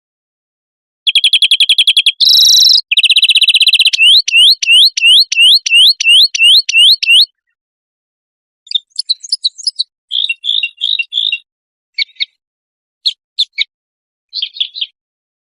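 Recorded songbird song: a fast, loud trill, then a run of rising whistled notes about three a second. After a short pause come scattered quieter chirps and buzzy notes.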